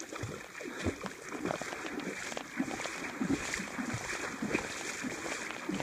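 River water sloshing and gurgling irregularly around someone wading through a strong current.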